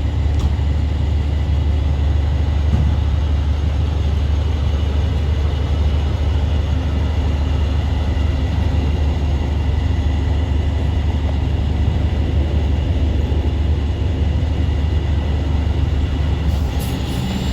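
Vehicle engine running steadily: a continuous low rumble with faint steady whines above it.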